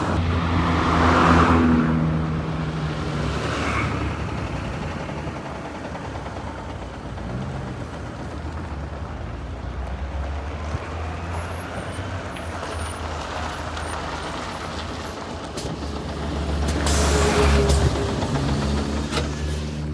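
Route bus's diesel engine running steadily under the passengers, louder about a second in and again near the end, each swell joined by a hiss of air.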